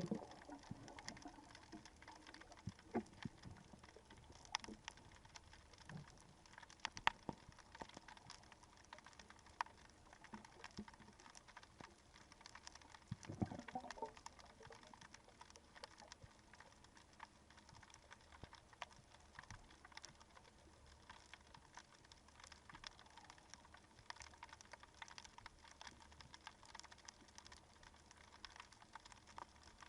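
Faint underwater crackling: scattered soft clicks and ticks, a few louder ones, and one dull knock about halfway through.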